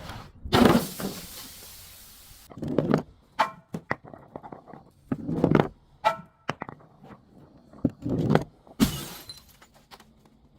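Glass bottles breaking and being crushed: a series of about seven crunching cracks, some followed by the brief ringing tinkle of shards, with small crackles between them.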